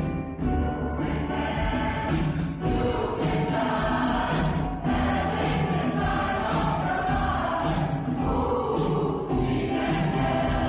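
Mixed choir of men and women singing with accompaniment.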